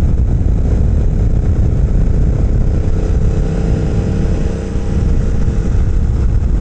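Royal Enfield motorcycle running at steady road speed, heard through heavy wind rushing over the rider's camera microphone, with a brief dip in loudness a little past four seconds.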